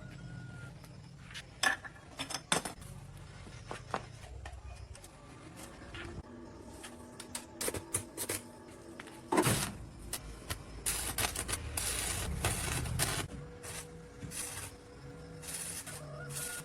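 Scattered light metallic clinks and knocks of steel parts and tools being handled, with a denser burst of clattering noise a little past the middle.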